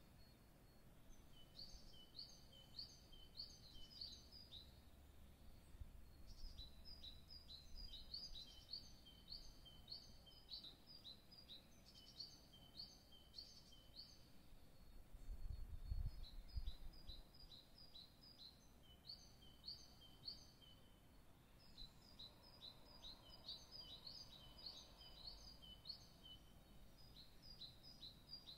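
Faint birdsong: a small bird singing phrases of quick, repeated, high falling chirps, each phrase a few seconds long with short pauses between. A brief low thump sounds about halfway through.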